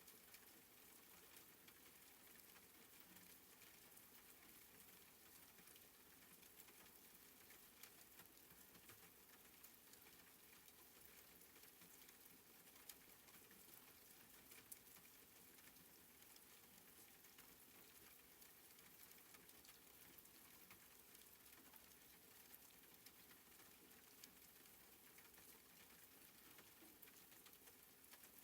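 Faint, steady soft rain, an even patter with scattered small drop ticks.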